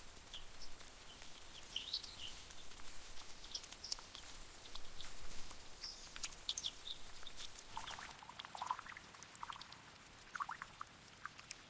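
Faint, scattered high-pitched chirps from small animals, irregular and brief, over a soft hiss that fades about eight seconds in.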